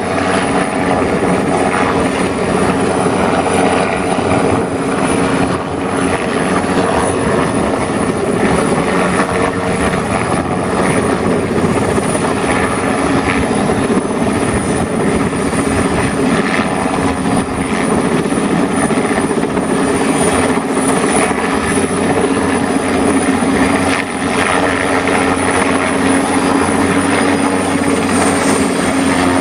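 Large HVAC unit running: a steady mechanical drone with a thin, high constant whine.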